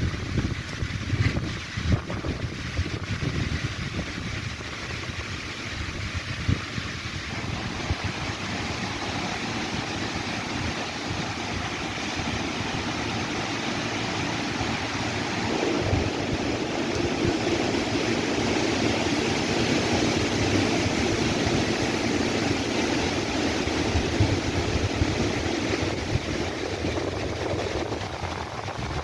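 Wind blowing steadily with low gusts buffeting the microphone, growing a little louder about halfway through.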